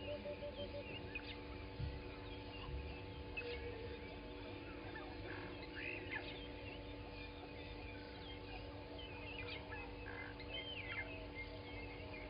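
Mixed wild bird calls: many short chirps and whistled calls from several birds, scattered throughout, with a quick run of short repeated low notes in the first second. A steady low hum runs underneath.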